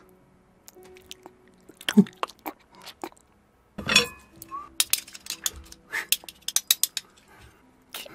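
Close-up mouth and eating sounds: irregular wet chewing and crunchy clicks, thickest in the middle, with a louder noisy burst about four seconds in. A faint low steady hum runs underneath.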